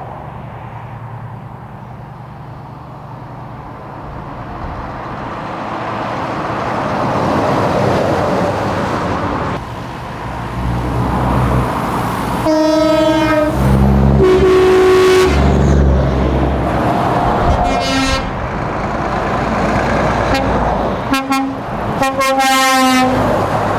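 Heavy trucks running past with a rising engine rumble, then multi-tone air horns blown several times in the second half, the longest blast near the end.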